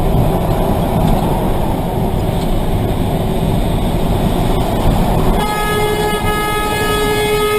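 Loud, steady vehicle rumble, then a horn sounds about five seconds in and holds as one long, steady note.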